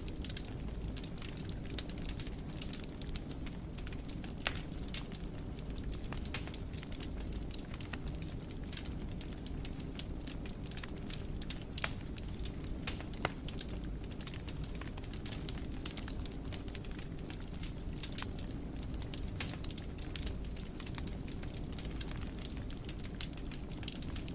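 Wood fire burning in a fireplace: a steady low rumble of flames with frequent irregular crackles and small pops, one sharper pop about halfway through.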